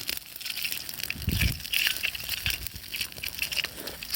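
Close-up chewing of a grilled chicken gizzard, an irregular crunching with many small crackles.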